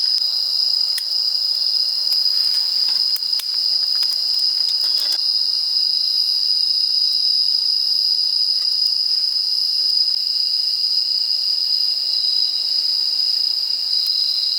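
Chorus of crickets trilling in one steady, unbroken high-pitched drone, with a few faint clicks in the first five seconds.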